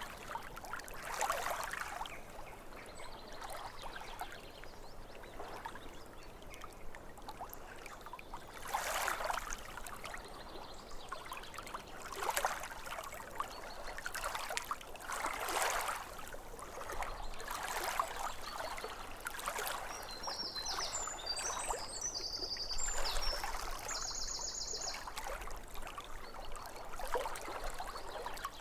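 Small lake waves lapping at the shore, the water swelling and washing in every few seconds. A bird chirps and gives a short trill about three-quarters of the way through.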